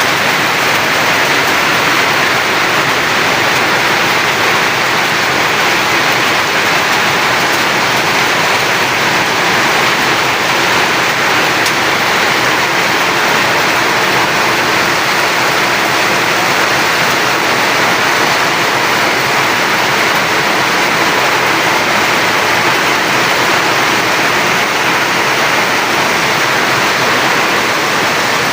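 Heavy rain falling steadily: a loud, even hiss.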